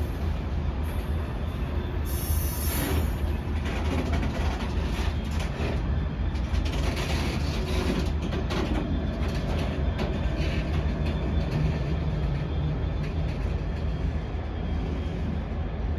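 Freight train passing: a steady, heavy rumble of wagons rolling on the rails.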